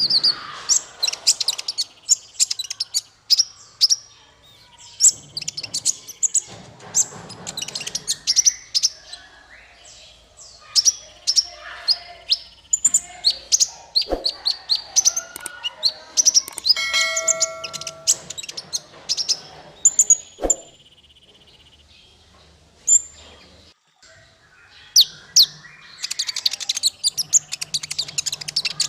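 Small songbird singing a fast run of sharp, high chirps and trills. About two-thirds of the way through comes a short steady whistled note with overtones, and the song thins out for a few seconds before picking up again near the end.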